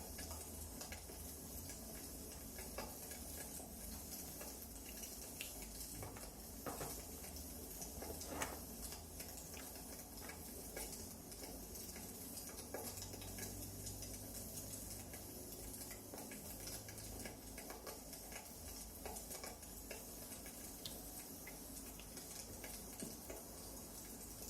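Firewood burning in a fireplace: a faint steady hiss with irregular small crackles and pops, one louder crack about eight seconds in.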